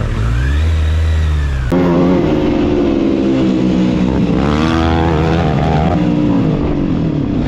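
Motorcycle engine revving and accelerating, its pitch rising and falling several times as it goes through the gears, with a sudden change in the sound about two seconds in.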